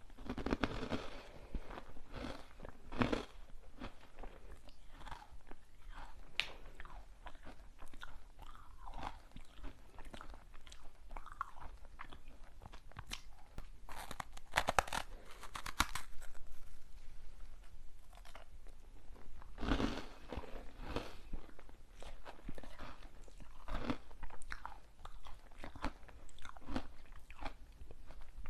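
Close-miked eating of crunchy sweets: irregular crisp bites and crunching chews, with louder bursts of crunching about halfway through and again a few seconds later.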